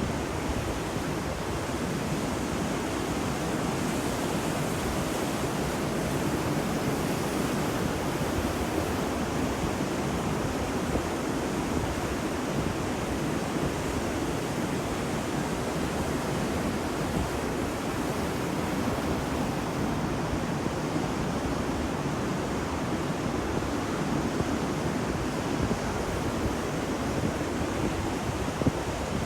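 Steady wash of ocean surf on a beach, a continuous roar of breaking waves with no distinct single breakers standing out.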